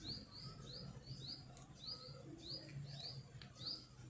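A bird chirping over and over, faint, in short rising notes about two or three a second.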